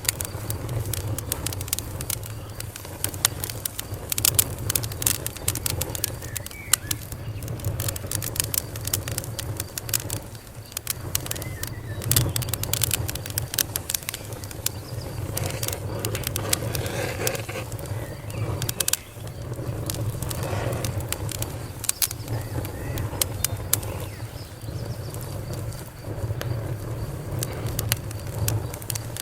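Campfire crackling, with many sharp irregular pops over a steady low rumble. Birds call now and then, mostly in the second half.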